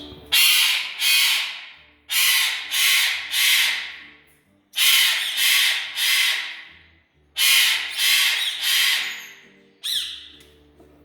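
A pet bird screeching loudly, harsh calls repeated in quick groups of two or three about half a second apart, ending with one falling call.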